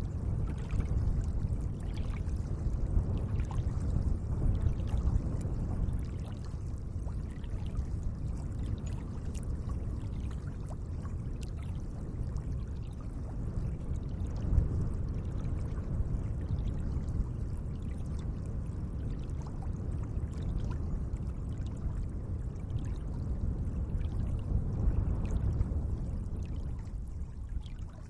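Lake water lapping gently: a steady low wash with many small splashes and drips.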